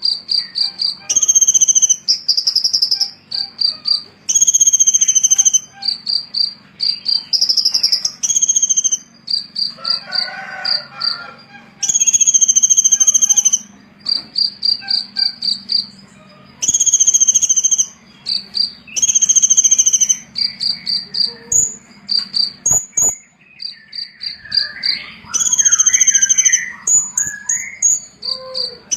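Loud, very high-pitched chirping: runs of short, evenly repeated cricket-like pulses alternating with longer buzzy trilled notes, with lower twittering warbles about ten seconds in and again near the end.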